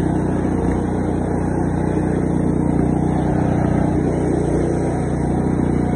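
14.5-horsepower Murray riding mower engine running steadily at a constant pitch.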